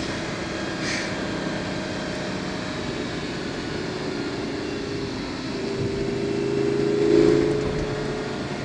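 Lamborghini Gallardo's 5-litre V10 running under way, heard inside the cabin. The engine note swells louder in the second half, peaking about seven seconds in, then eases off.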